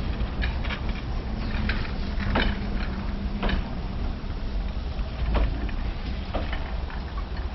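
Passenger cars of a narrow-gauge train rolling slowly past, a steady rumble of wheels on the rails broken by scattered sharp clicks and knocks from the running gear.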